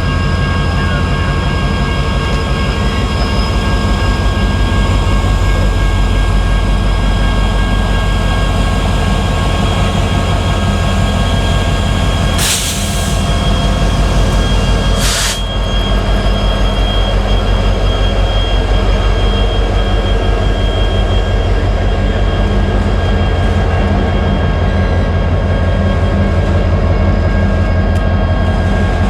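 Diesel freight train running close by: a loud, steady low rumble that pulses evenly, with several steady high whines over it. Two short hissing bursts come about halfway through.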